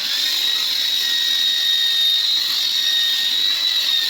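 Electric power drill running steadily under load, a loud high-pitched whine over a rough grinding noise, starting up sharply at the beginning.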